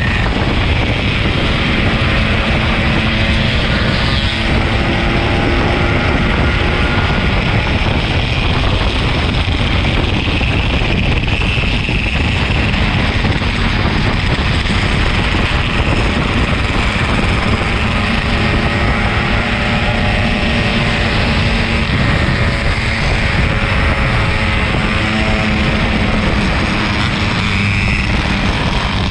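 Wind rushing over the microphone on a moving motorcycle, with a Yamaha RX-King 135's single-cylinder two-stroke engine running underneath, its pitch drifting up and down as the speed changes.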